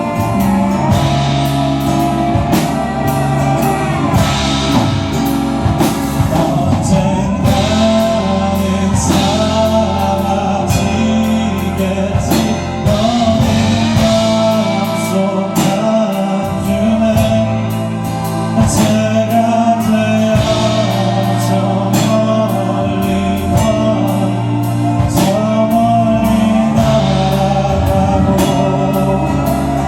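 A live band plays loudly: drum kit keeping a steady beat under bass, guitars and keyboard, with singing over it.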